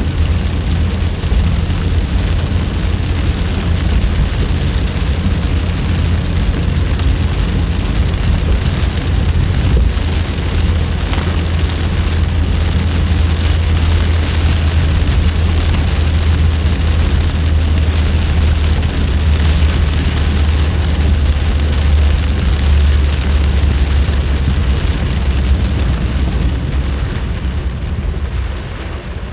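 A car driving on a rain-soaked road in heavy rain: a steady low rumble of engine and road under an even hiss of rain and wet tyres, easing slightly near the end.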